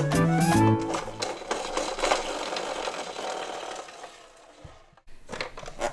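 Small toy cars rolling and rattling along a slope track: a dense clatter that fades out over about four seconds, then a few sharp clicks near the end. A short electronic tune from a toy bus ends about a second in.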